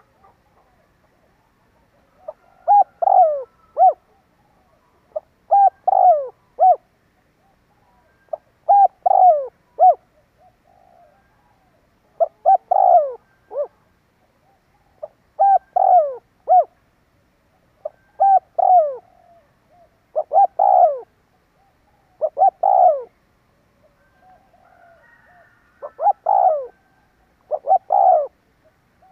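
Spotted dove cooing: about ten short phrases of three or four notes each, repeated every two to three seconds, with fainter coos between them. This is a territorial coo of the kind played to lure wild doves.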